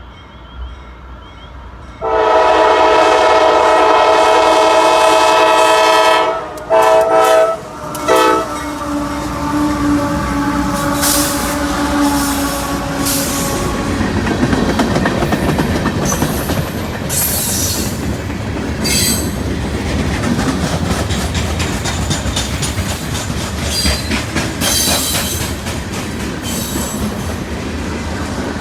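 Locomotive air horn sounding one long blast followed by a few short blasts as a freight train led by CM44AC locomotives approaches, then the locomotives' diesel engines drone past. The freight cars follow, rolling with clickety-clack and scattered high wheel squeals.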